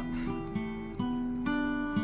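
Acoustic guitar fingerpicked, single notes plucked one after another about twice a second and left ringing over each other in the verse picking pattern.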